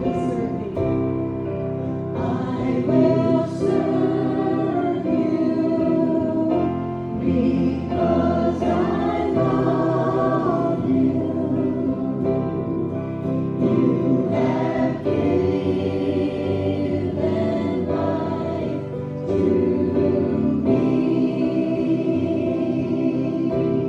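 A group of voices singing a gospel hymn together, with sustained, held notes.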